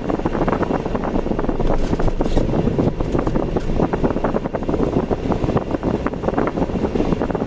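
A car driving on ordinary roads: steady road and wind noise with rough, rapid buffeting.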